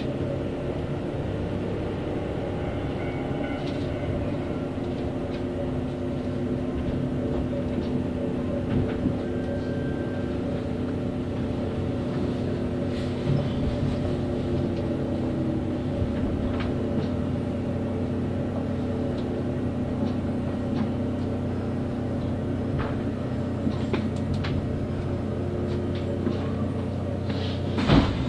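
Kintetsu express electric train running at speed, heard from inside the passenger car: a steady hum with several held tones over the low rumble of the wheels, with scattered short clicks and a louder clatter near the end.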